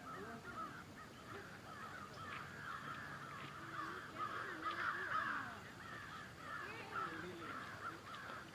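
A dense chorus of many overlapping short, wavering animal calls from the lake's wildlife, busiest about halfway through.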